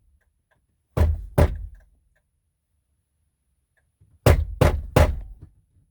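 Loud dull knocks from a pickup truck: two about a second in, then a quick run of four near the end. This is the unexplained noise the truck makes with the engine off, which the owner suspects is the heater system's fan still trying to move.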